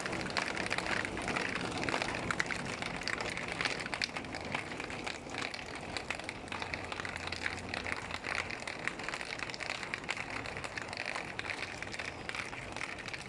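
Heavy rain falling, a steady hiss full of closely spaced drop impacts, with a low hum underneath that fades out about two-thirds of the way through.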